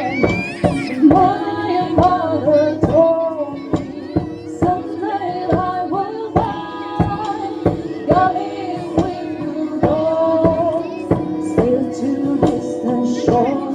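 Live folk-style music: a melody wavers above a steady low drone, with drum strokes beating at an even pace.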